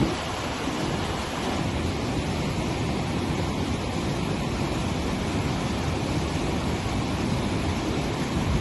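Steady rushing of fast-flowing floodwater, an even noise with no distinct events.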